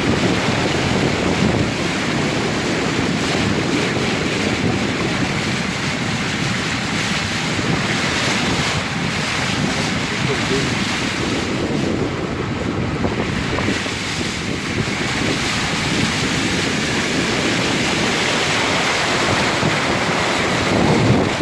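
Floodwater rushing across a paved lot in a steady, loud rush, with wind buffeting the microphone.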